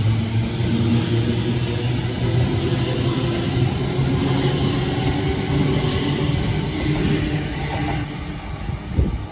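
Sydney Trains double-deck electric train pulling out of the platform: a steady low motor hum over wheel and rail rumble, easing off about eight seconds in as it draws away.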